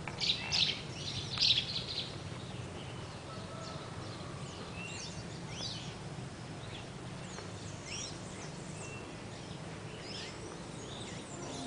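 Birds singing: a burst of loud, quick chirps in the first two seconds, then scattered short whistled notes that sweep up and down. A steady low hum runs underneath.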